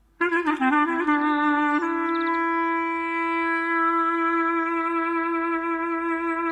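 Clarinet playing a short run of quick notes, then holding one long, steady note.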